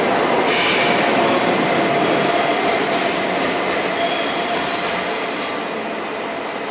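A Kowloon-Through-Train of double-deck carriages with a Lok 2000 electric locomotive rolls out of the station, running steadily on the rails with thin high-pitched wheel squeals over the rumble. A brief sharp squeal comes about half a second in, and the sound fades slightly near the end as the train draws away.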